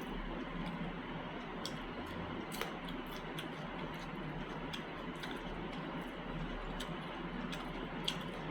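A person chewing and eating: irregular small wet clicks and smacks from the mouth, a few each second, over a steady background hiss.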